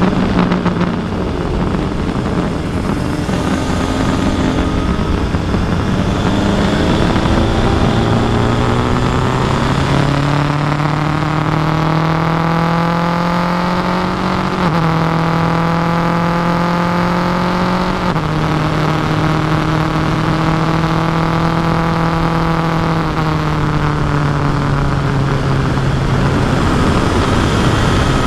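Kawasaki Versys 1000 SE's inline-four engine under way, its note rising over the first half. The pitch then holds with two small dips and falls away a few seconds before the end, over a steady rush of wind noise.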